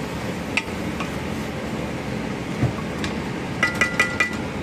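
Metal spoon clinking against the frying pan while the chicken masala fry is stirred: a few light taps, then a quick run of four or five ringing clinks near the end, over a steady hiss.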